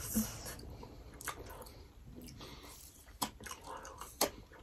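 Close-miked chewing of soft mutton momos, wet mouth and eating sounds with a few short sharp smacks spread through.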